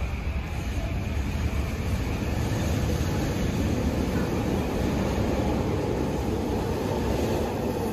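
SkyTrain running on its elevated guideway: a steady rumble of wheel and rail noise that grows a little louder over the first couple of seconds and then holds.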